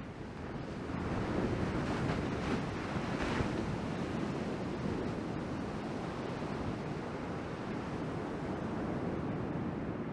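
Rushing seawater and breaking surf, with wind buffeting the microphone, growing louder about a second in.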